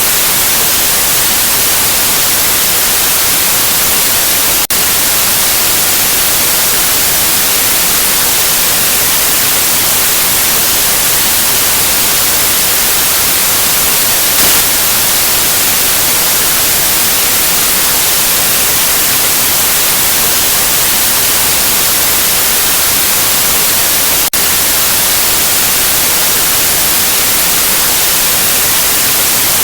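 Steady, loud white noise: an even hiss across all pitches, with two momentary dips, about five and twenty-four seconds in.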